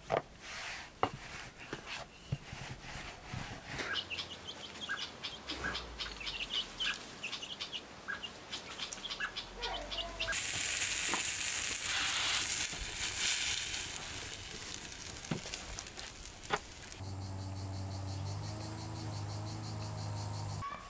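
Birds chirping in short, repeated calls among scattered clicks. About ten seconds in, a loud, steady high hiss takes over. In the last few seconds it gives way to a steady low hum with a thin high whine.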